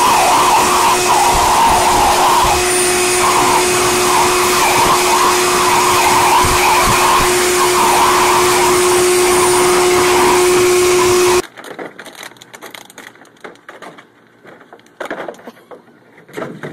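A loud electric blower motor, of the vacuum or blow-dryer kind, running steadily with a fixed hum and a wavering whine. It cuts off suddenly about eleven seconds in, leaving faint scattered clicks and rustles.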